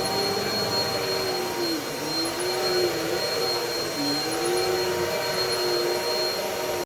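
Bissell PowerLifter Pet upright vacuum cleaner running steadily with a motor whine. Its pitch dips briefly twice as it is worked over the floor.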